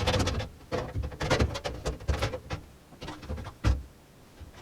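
Irregular clicks, taps and knocks of computer-case hardware being handled, with one sharper knock a little past three and a half seconds in.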